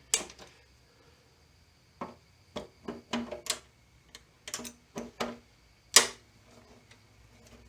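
Irregular metallic clicks and clinks of a hand wrench on a fastener of a motorcycle gas tank, a dozen or so sharp knocks in loose clusters, the loudest about six seconds in.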